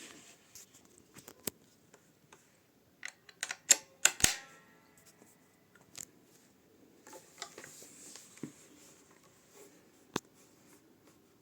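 Amplified Schecter Banshee Mach 6 guitar with a Sustainiac system: a faint white-noise hiss that comes and goes, broken by sharp clicks of the guitar's switches being flipped, with a loud cluster of clicks about four seconds in. The hiss is the Sustainiac fault, appearing when the Sustainiac is switched off with the pickup selector at middle or neck and a mono jack plugged in.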